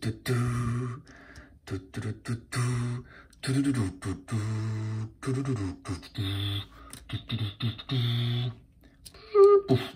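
A person making engine noises with their voice for a toy monster truck: a string of short, low, buzzing hums with brief gaps between them, and a higher-pitched note near the end.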